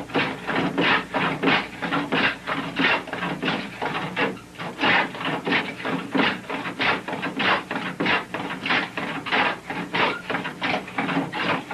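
Quick, even strokes of a hand tool shaving the wooden stem of a cedar strip canoe, about two or three scraping strokes a second.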